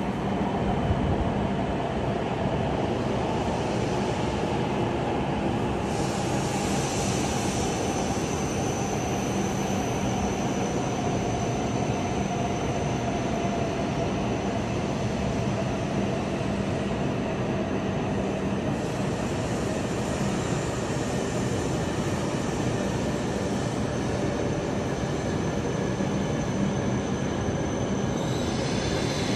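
E7/W7-series Shinkansen train running slowly alongside the platform as it pulls into the station, a steady rolling noise with a motor whine that falls slowly in pitch as the train brakes. A thin high tone joins about six seconds in.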